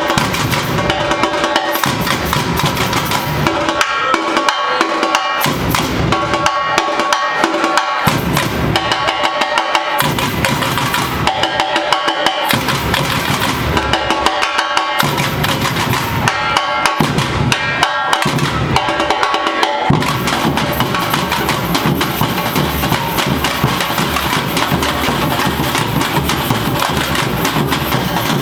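Brazilian samba-style university bateria (percussion ensemble) playing: snare and other drums over a driving groove. The low bass drums drop out for short gaps again and again, then from about two-thirds in the whole ensemble plays steadily together.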